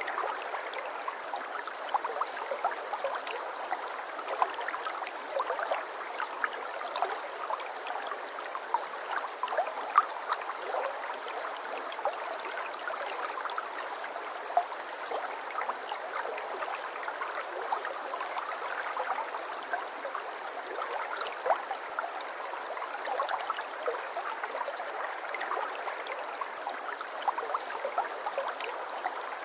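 Shallow brook babbling over stones: a steady rush of water with constant small bubbling and splashing.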